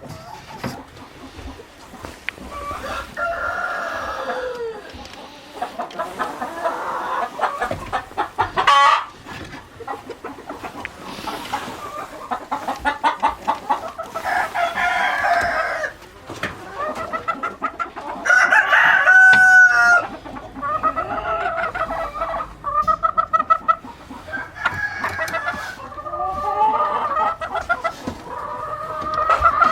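Chickens clucking and calling, with runs of quick repeated clucks and several longer drawn-out calls.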